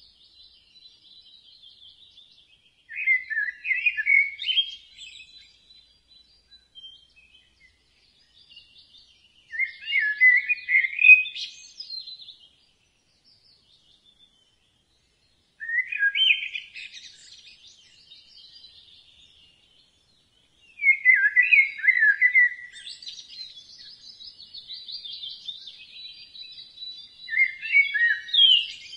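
Songbird singing: five short, loud warbled phrases, one about every six seconds, with fainter high twittering between them.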